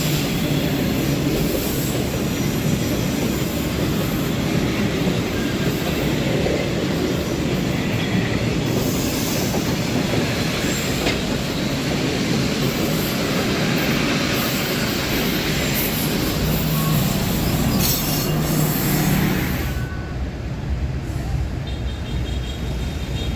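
Passenger or freight cars of a Vietnamese train rolling past on the track, a steady rumble and rattle of wheels on rails that drops away about 20 seconds in.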